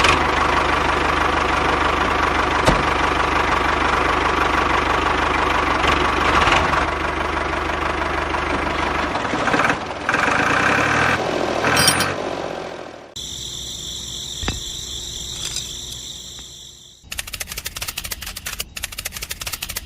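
Tractor-like engine running steadily for about thirteen seconds, then cutting off. After it comes a quieter steady high whine, and near the end a rapid ticking.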